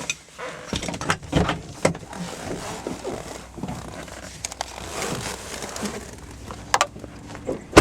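Handling noises: scattered clicks, rustling and scraping, with one sharp, loud knock near the end.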